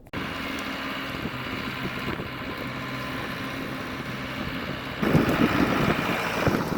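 Vehicle engine running steadily. About five seconds in it gets louder, with wind buffeting the microphone.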